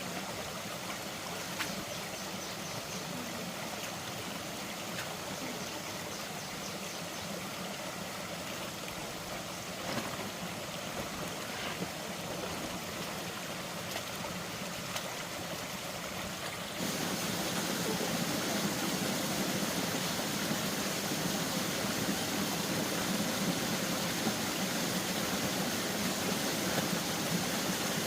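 Steady rushing of flowing water with a few faint clicks. About two-thirds of the way through it changes abruptly to a louder, hissier rush.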